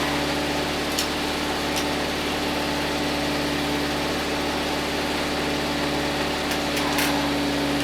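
A steady machine hum with a constant pitch, like a motor running, with a few faint clicks about a second in and again near the end.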